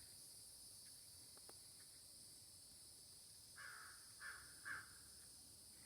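A crow-type bird cawing faintly three times in quick succession, a little past halfway through.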